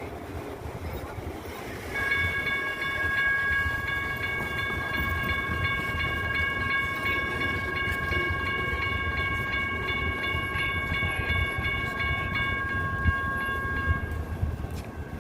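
Light rail train running with a low rumble, and a steady high-pitched tone with overtones that starts about two seconds in, holds for about twelve seconds and then stops.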